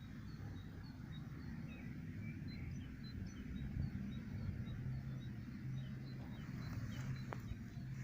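Small birds chirping outdoors: short high calls repeated about three times a second, over a low steady rumble.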